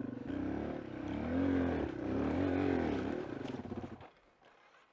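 Yamaha XT225's single-cylinder four-stroke engine running at low revs, its pitch rising and falling with the throttle, then cutting out abruptly about four seconds in: the engine stalls.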